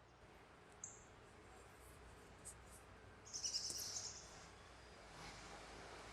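Faint bird calls: a short, high, thin chirp about a second in, then a louder, harsher high call lasting just under a second a little after three seconds in.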